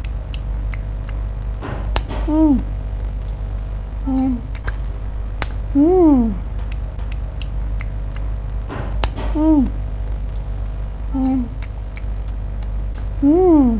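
An animal's short cries, each rising then falling in pitch, repeated six times about every two seconds, over a steady low hum and a faint high whine.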